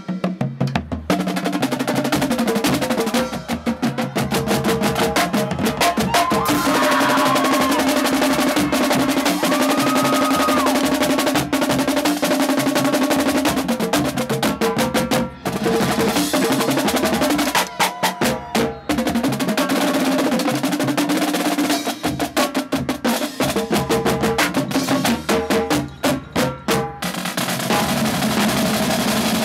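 Marching drumline playing a cadence: snare drums, tenor drums and bass drums in fast, dense patterns and rolls. Short breaks and strings of separate, spaced unison hits come a little past halfway and again near the end.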